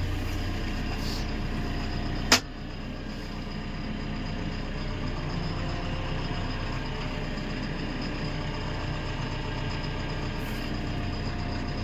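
A backhoe loader's diesel engine running steadily at idle. A single sharp click comes a couple of seconds in, after which the low rumble is a little quieter.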